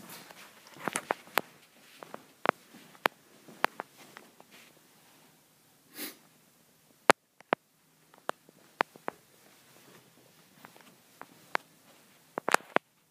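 Scattered sharp clicks and taps at irregular intervals in a small room, with a short sniff about six seconds in.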